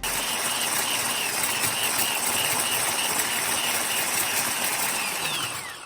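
Electric hand mixer running steadily, beating egg yolks in a bowl, with a high motor whine; near the end the whine falls in pitch as the mixer is switched off and winds down.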